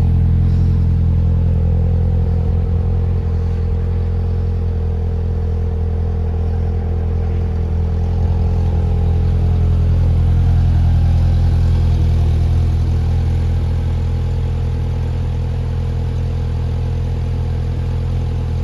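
2020 Polaris Slingshot R's 2.0-litre four-cylinder engine idling steadily, with a slight swell in level about ten seconds in.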